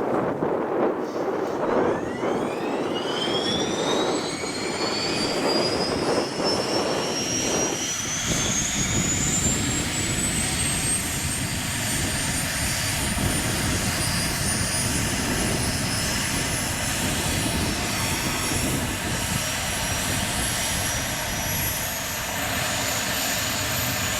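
Mi-26 helicopter's auxiliary power unit (APU), a small gas turbine, starting up. Its whine rises steeply in pitch from about two seconds in, then levels off into a steady high whine over a rushing noise.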